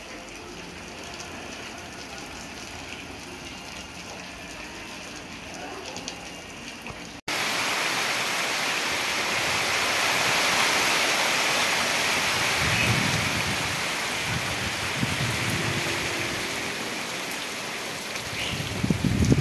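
Rain falling: a steady, fairly light patter on a street. After a cut about seven seconds in, it gives way to heavier, louder rain pouring onto trees and banana leaves, with a few low rumbles in the second half.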